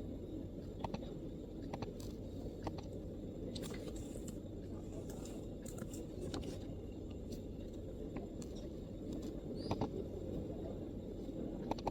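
MacBook keyboard keys pressed now and then, single soft clicks roughly a second apart with a short flurry partway through, over a steady low background rumble.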